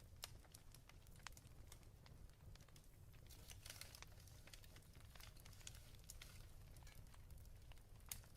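Faint fireplace crackling: scattered small pops and snaps over a low steady hum, with a short rustle about three seconds in.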